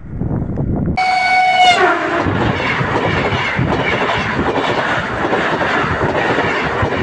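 A passing train. About a second in, its horn sounds briefly and slides down in pitch as it ends, then the steady rush and wheel clatter of the passing cars follow.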